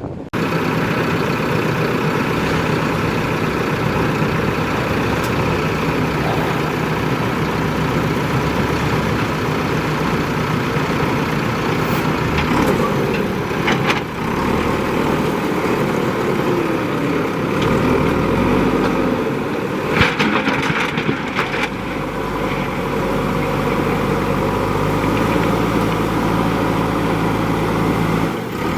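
JCB 3DX backhoe loader's diesel engine running steadily, its low note shifting a little about two-thirds of the way through. A few sharp knocks and clanks sound over it.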